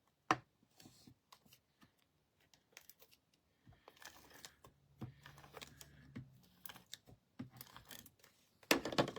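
Cardstock being handled and stuck down with a tape runner: scattered soft clicks, rustles and rubs of paper, with a sharp click just after the start and a louder burst of rustling near the end.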